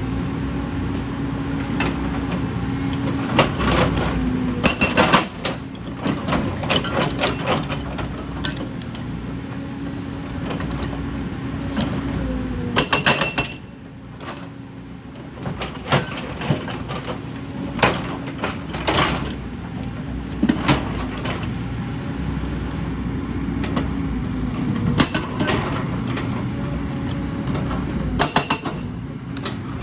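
Hyundai excavator's diesel engine running steadily, with repeated sharp clanks and knocks from the machine at work. The engine drops back briefly about halfway through, then picks up again.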